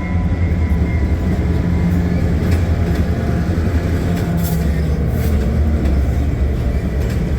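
Jeep Gladiator driving at a steady pace: a continuous low drone of engine and road noise. It is running on freshly installed 5.13 ring-and-pinion gears that are still being broken in.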